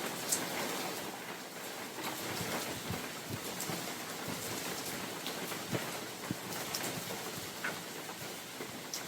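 Steady rain falling in a forest, a constant hiss with many individual drops pattering and ticking on leaves and surfaces.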